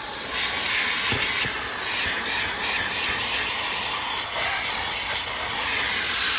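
Self-serve car wash vacuum running, a steady rushing hiss of air sucked through its hose and nozzle tool as it is worked over the car's interior, getting a little louder about half a second in.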